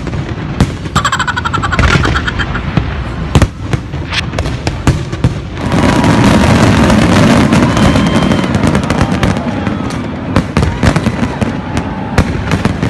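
Fireworks going off in a string of sharp bangs and cracks. From about six seconds in they merge into a loud, dense, continuous crackling barrage.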